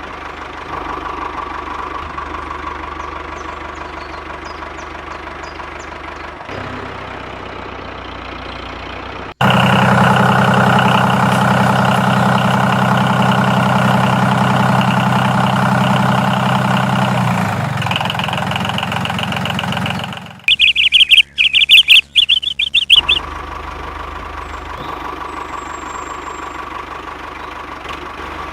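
A small motor of a DIY model tractor running steadily. An abrupt cut brings a louder, steadier machine hum, then about two and a half seconds of loud, sharp high-pitched chirping bursts, and then the steady motor sound again.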